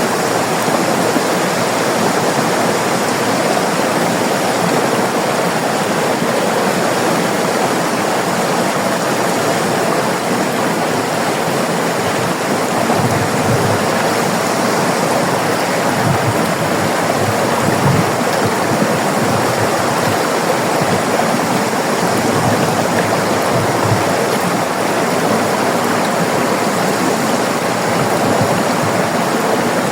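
River water rushing and splashing steadily over rocks, with occasional low thumps from the current.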